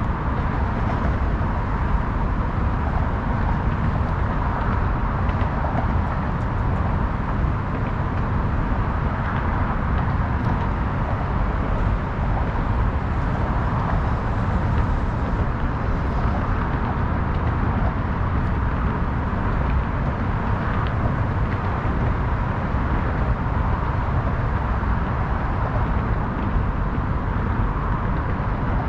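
Steady city ambience dominated by a continuous low rumble of passing road traffic, with a faint steady hum.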